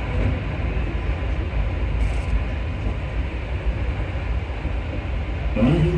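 MP14 rubber-tyred Paris Métro train running through a tunnel, a steady low rumble of wheels and running gear heard from inside the front car.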